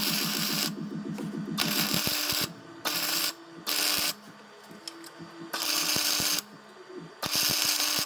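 MIG welder arc crackling on rusty steel exhaust pipe in short bursts, starting and stopping about six times, each burst half a second to a second long.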